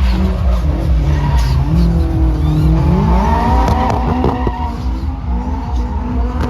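Drift cars sliding with tyres squealing, their engines revving up and down and rising in pitch around the middle.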